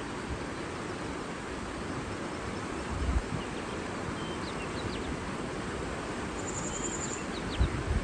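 Steady rushing of water outdoors, with faint short bird chirps scattered through it and a brief high trill a little before the end. Two low thumps of wind on the microphone, about three seconds in and near the end.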